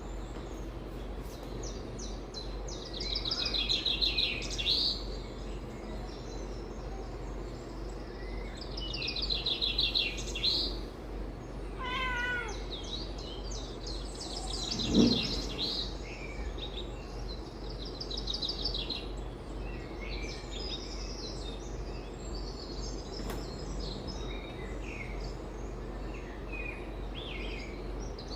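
Songbirds chirping from a bird video on a television: bursts of high trills every few seconds over a steady low hum. A cat meows briefly about halfway through, the loudest sound here.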